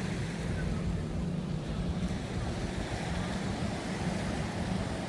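Beachfront ambience: a steady low engine hum over a rumble of wind and surf, with no distinct events.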